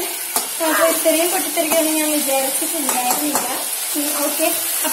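Food sizzling in hot oil in a metal kadai while a spoon stirs it, with a few light clicks of the spoon against the pan. A voice carries on over the frying.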